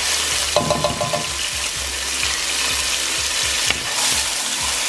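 Diced onions and minced garlic sizzling in hot olive oil in a large pan, stirred and pushed around with a silicone spatula that scrapes across the pan bottom. The steady sizzle is the sound of the onions softening towards translucent.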